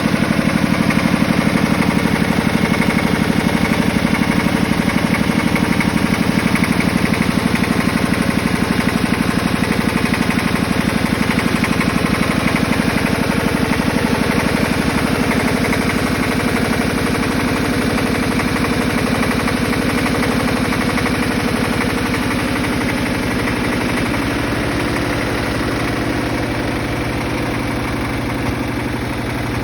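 Porsche Diesel Junior 108L tractor's single-cylinder air-cooled diesel idling with a steady, fast chugging beat. It grows slightly quieter, and its tone shifts a little about three-quarters of the way through.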